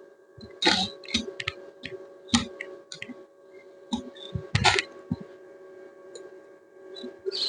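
Irregular sharp clicks and knocks, the loudest about a second in, near two and a half seconds and near five seconds, over a steady low hum.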